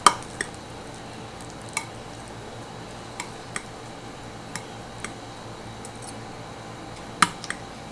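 Two metal forks clicking and scraping against a pan while bacon-wrapped asparagus spears are turned over: about nine short, sharp clinks, the loudest at the very start and about seven seconds in.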